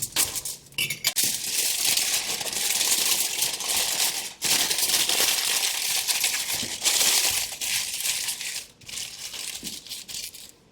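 Aluminium foil crinkling and being crumpled in long stretches while a potato is wrapped for baking in campfire coals, with brief pauses between handfuls.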